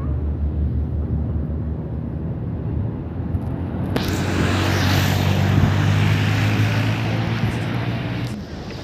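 A large engine droning low and steady, with a rushing hiss that starts about four seconds in and cuts off suddenly just after eight seconds.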